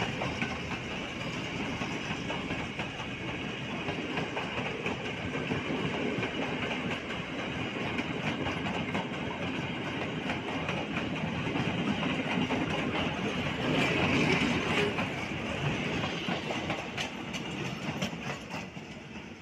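Express passenger train's coaches passing close by: a steady rolling rumble with wheels clacking over the rail joints. It fades near the end as the last coach goes by.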